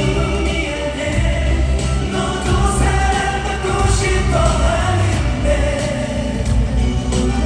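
Live pop song: a male vocal group singing over a band with heavy bass.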